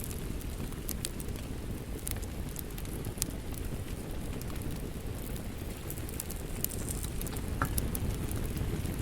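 Wood fire burning steadily with a low, even rush and scattered sharp crackles and pops throughout.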